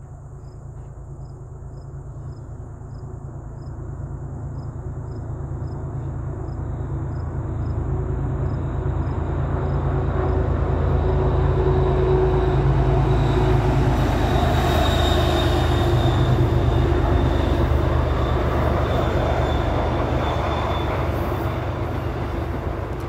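MBTA commuter rail train with bi-level coaches approaching and crossing overhead on the line's steep climb. Its rumble builds over about ten seconds and then holds steady and loud, with a thin high whine riding on top in the second half. Crickets chirp about twice a second at first, fading under the train as it grows louder.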